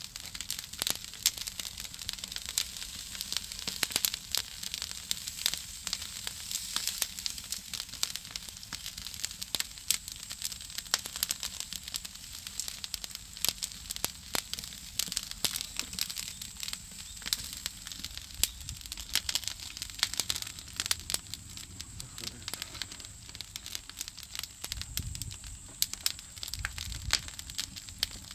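Firewood burning in a barbecue hearth, crackling with many irregular sharp pops over a steady hiss.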